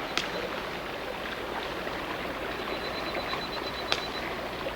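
Steady rush of a forest stream, with two sharp clicks, one just after the start and one near the end.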